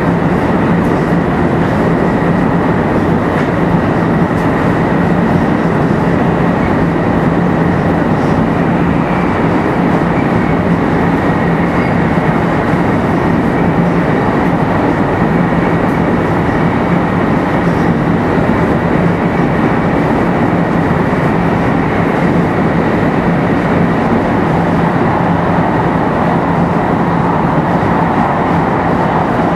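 Running noise heard aboard a 500 series Shinkansen car cruising at a steady speed: a dense, even rumble of wheels and rail with a steady low hum and a faint steady high tone, not changing in pitch.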